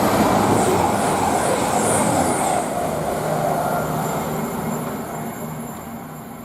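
CrossCountry Voyager diesel multiple unit passing at speed. Its rush of noise is loudest in the first two or three seconds, then fades away as the train recedes.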